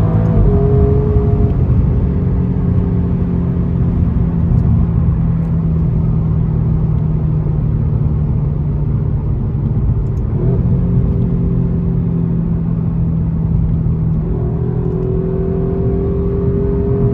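Alfa Romeo Giulia Quadrifoglio's twin-turbo V6 running at a steady cruise under light throttle, its exhaust note holding an even pitch. The note dips and changes briefly about ten seconds in, then settles steady again.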